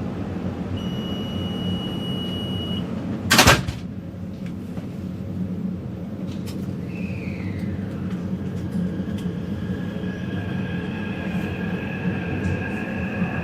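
Metro train car at a station: a door-closing warning tone beeps for about two seconds, then the sliding doors shut with one loud thud. The train then starts moving, with an electric motor whine coming in over the steady rumble.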